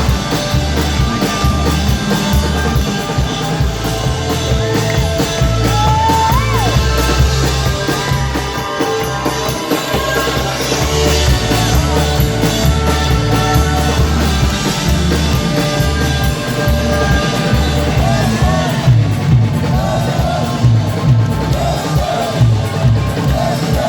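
Live band music at full volume: a rock-style song with singing, drums and a heavy bass line.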